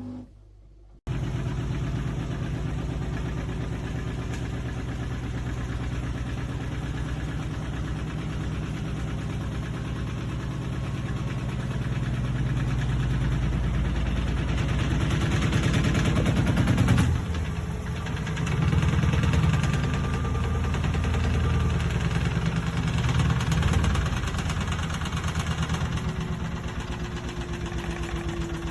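Washing machine running: a steady low hum with a fast, even pulsing, starting about a second in and shifting briefly about two-thirds of the way through.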